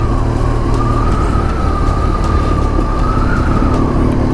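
2006 BMW R1200GS's boxer-twin engine running steadily on the move, with a deep rumble and wind rush and a thin, steady whine that wavers slightly in pitch.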